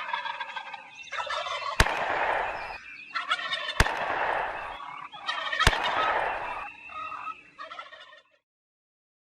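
Wild turkey gobbler gobbling repeatedly, with three sharp clicks about two seconds apart.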